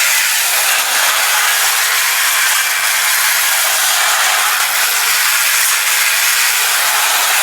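Clockwork spring motor of a Technofix tinplate toy train running, a steady loud whirring rasp of the wound spring driving the gears and wheels.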